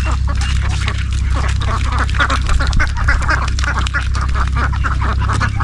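Ducks quacking rapidly and repeatedly, over a steady low rumble.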